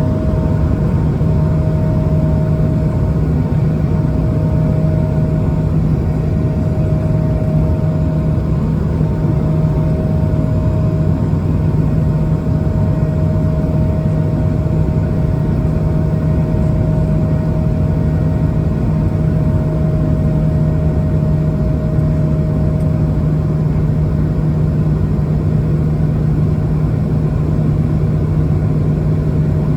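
Airbus A220-300's Pratt & Whitney PW1500G geared turbofan engines running at takeoff thrust, heard inside the cabin as a loud, steady rush of noise with a low hum and a fainter higher tone.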